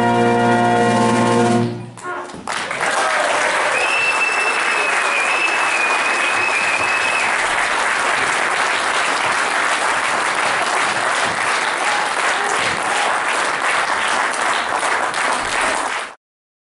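A large wind band of brass and woodwind players holds its final chord, which is cut off about two seconds in. The audience then applauds steadily, and the applause stops abruptly near the end.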